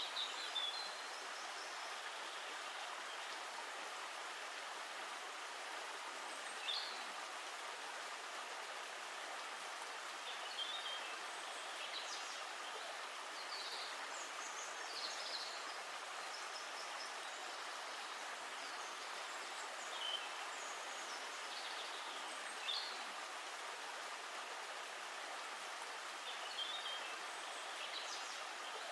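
Steady rush of running stream water, with short high bird chirps every few seconds.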